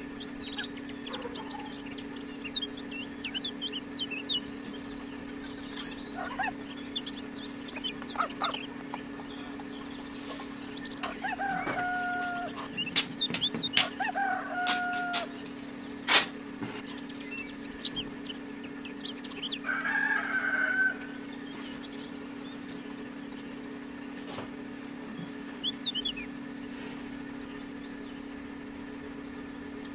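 Birds chirping, with two drawn-out calls and a louder call later on, over a steady low hum; one sharp click about sixteen seconds in.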